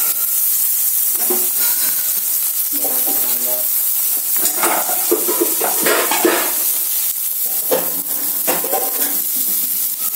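Chopped onion, garlic and mustard and fenugreek seeds sizzling steadily in hot mustard oil in a kadai, frying as the tadka (tempering) for kadhi.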